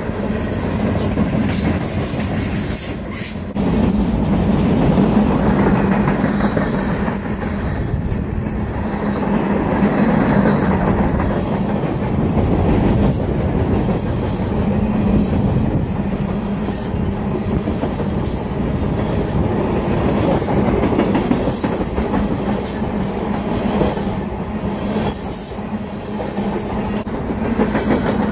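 Union Pacific freight train's cars rolling past at close range: a steady rumble of steel wheels on the rails with scattered clicks and clatter as the wheels cross rail joints. It gets louder about three and a half seconds in.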